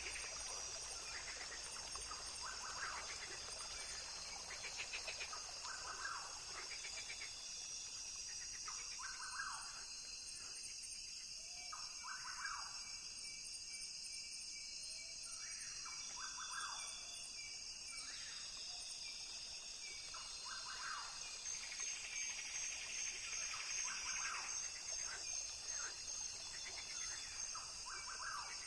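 Rainforest ambience: insects droning and trilling steadily at a high pitch, with short chirping calls repeating every second or two and growing busier near the end.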